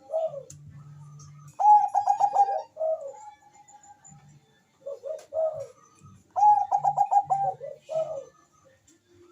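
Bangkok-line zebra dove (perkutut) singing its cooing song. It gives two bouts of fast, rapidly repeated coos, a few seconds apart, with shorter lower coos in between.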